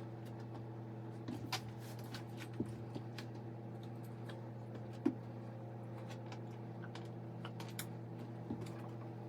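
A steady low electrical hum, with scattered light clicks and knocks of small things being handled; the sharpest knock comes about five seconds in.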